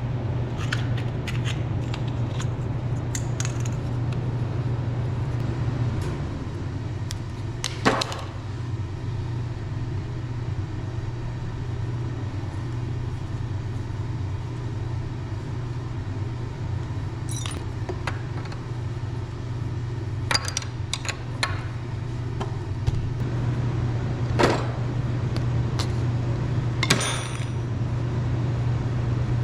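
Metal tools and parts clinking and clanking every few seconds over a steady low hum.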